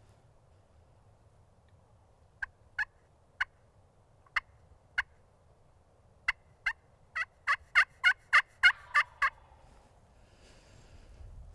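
Turkey calling: five sharp, widely spaced clucks, then a quicker run of about ten yelps that grows louder and then eases off.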